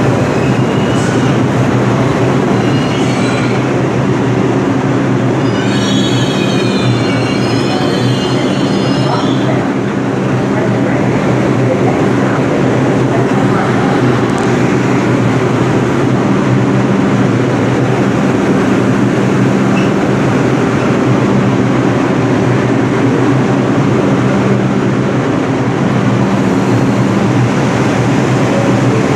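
New York City subway train running through a station with a loud, steady rumble and hum. For a few seconds, about six seconds in, its steel wheels squeal on the rails in wavering high tones.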